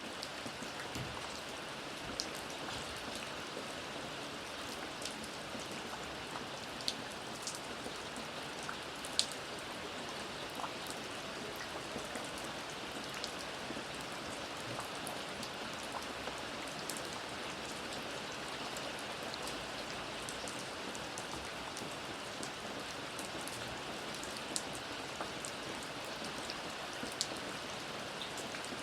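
Steady rain falling, with scattered individual drops landing as sharp ticks on a surface.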